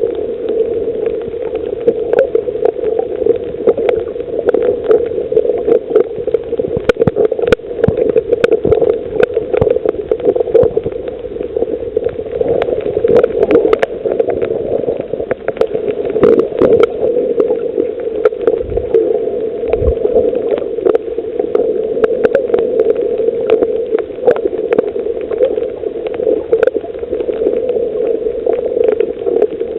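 Underwater ambience on a coral reef: a steady, muffled water rush with many sharp clicks and crackles scattered throughout, and two short low thumps about a second apart some two-thirds of the way through.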